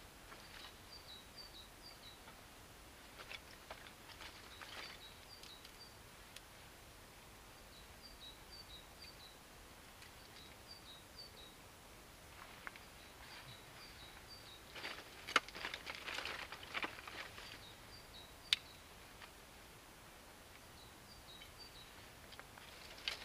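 A small bird repeating short high chirps in quick runs of three to five notes, over a quiet outdoor background. About two thirds of the way in comes a burst of close rustling and sharp clicks, with one more sharp click a few seconds later.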